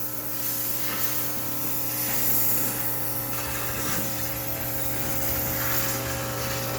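High-pressure steam cleaner spraying, a steady hiss over a steady machine hum.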